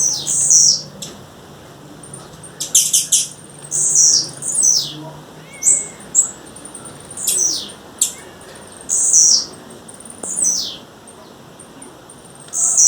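Female blue-black grassquit (tiziu) calling: short, high notes that each sweep downward, repeated about once a second, with a quick run of sharp clicks about three seconds in.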